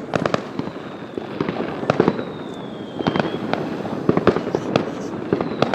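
New Year fireworks going off: many sharp bangs and crackles in quick, irregular succession. About two seconds in, a whistle runs for just over a second, gliding slightly down in pitch.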